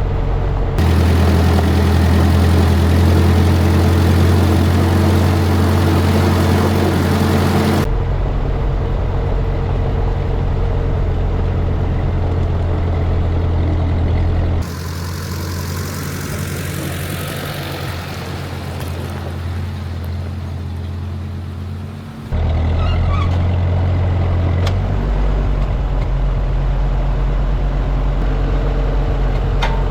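Tractor engine running steadily with a low hum. Its level and tone shift abruptly several times, about 1, 8, 15, 22 and 25 seconds in.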